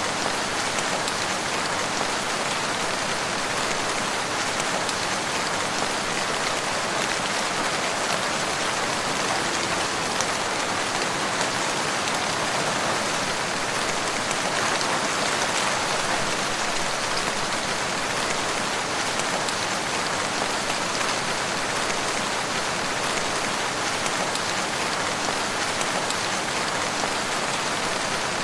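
Steady rain pattering on a surface, an even hiss that does not change.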